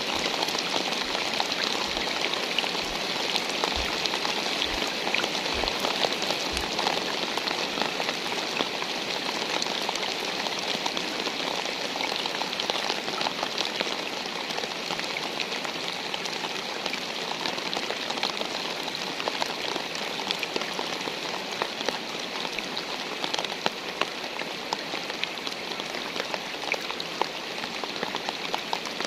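Steady rain falling, a dense patter of drops with no change in strength, and a few faint low thuds in the first several seconds.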